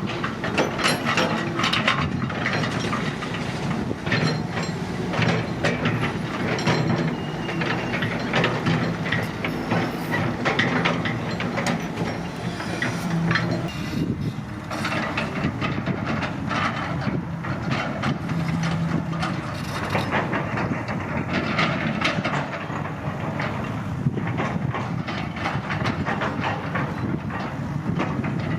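Excavator's diesel engine running steadily, with frequent metallic clanks and knocks from the working machine throughout.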